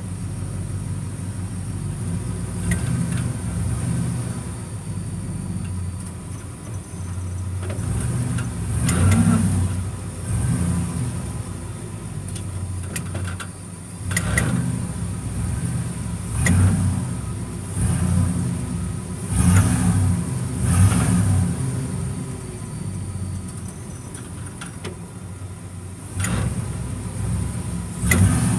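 2015 Ford F-350's 6.2-litre gas V8 running with a steady low rumble, broken every few seconds by sharp, irregular clicks. The click is the truck's persistent ticking fault, which the dealership blames on the leaf springs while the owner doubts it.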